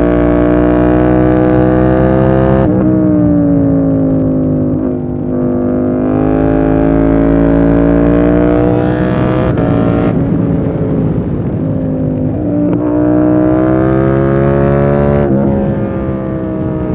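KTM 890 Duke R parallel-twin engine pulling hard, its pitch climbing and dropping back sharply at each gear change, about five times. It eases off and comes back on in the middle.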